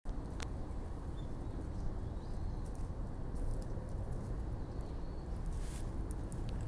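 Outdoor park ambience: a steady low rumble with a few faint, short bird chirps and scattered light clicks.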